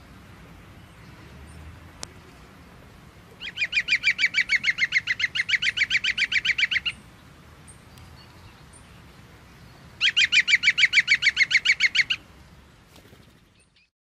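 A bird giving two rapid trills of evenly repeated notes, about eight a second: the first lasts about three and a half seconds, the second about two, with a faint outdoor background hiss that fades out near the end.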